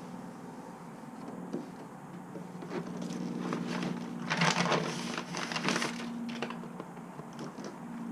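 Crackling and crinkling from handling sheets of self-adhesive sound-deadening mat, with the densest burst about four to six seconds in.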